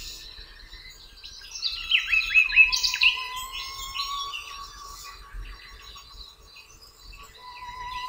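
Birdsong: a burst of quick, falling chirps about a second and a half in, over a long held note of soft background music.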